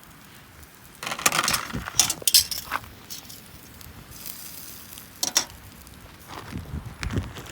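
Sharp clinks and knocks of small hard objects being handled, in a cluster from about one to three seconds in and once more around five seconds.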